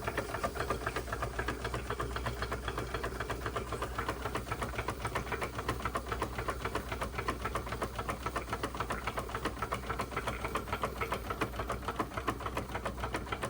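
Wilesco D32 model steam engine running steadily on low steam, its regulator turned down to 20%, with a fast, even mechanical beat.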